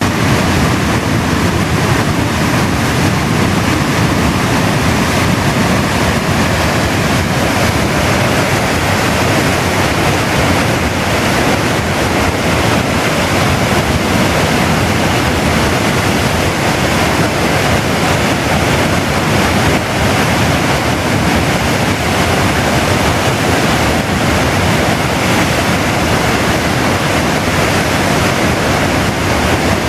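A mountain river in spate pouring over a weir: a loud, steady rush of water with no break.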